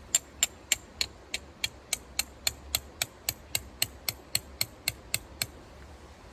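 A rapid, even series of about twenty sharp clicks, a little under four a second, that stops about a second before the end, over a steady hiss of rain.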